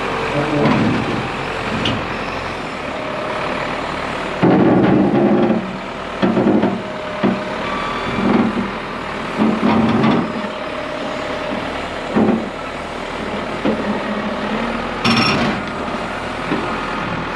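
Heavy truck engine running while backing a trailer into place, surging louder several times. About fifteen seconds in there is a short hiss of air brakes.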